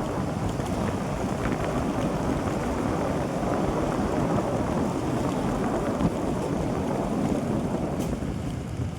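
Steady rumble of a pickup truck driving, with wind noise on the microphone and a small knock about six seconds in.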